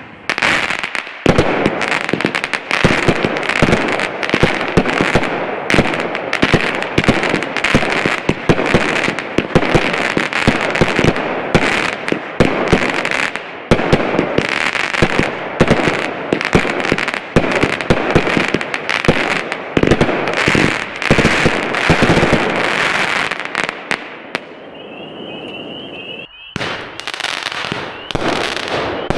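Three 16-shot 200-gram consumer firework cakes firing together: a dense, overlapping run of shots and bursts with crackling breaks. It thins to a hiss for a moment near the end, then a last flurry of shots follows.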